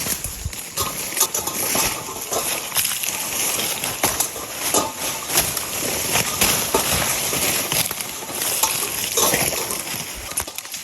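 Footsteps wading through shallow floodwater, an irregular run of sloshing and splashing steps, with a steady high-pitched hum behind.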